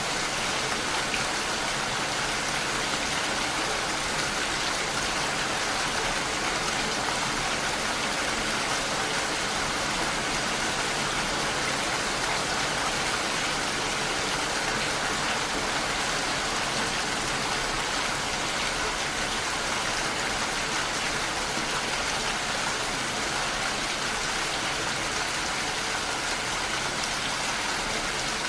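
Steady, even rain falling, with no thunder or other events.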